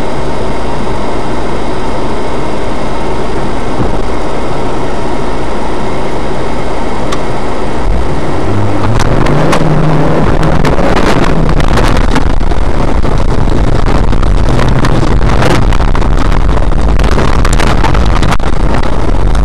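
Autocross car's engine, heard loud and close from the car, running steadily, then revving up about eight seconds in as the car sets off over the dirt track, its pitch rising and falling with the throttle. Sharp knocks and rattles of the car bouncing over the rough track come in after that, thickest near the end.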